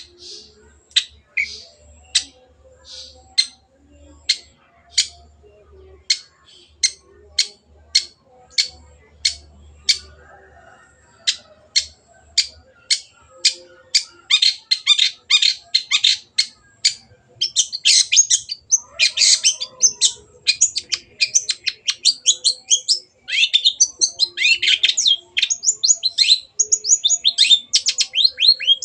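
Long-tailed shrike (cendet) calling: a series of short, sharp, high notes repeated a little over once a second and gradually quickening, then from about halfway a rapid, dense chattering song of varied notes with a brief pause near the end.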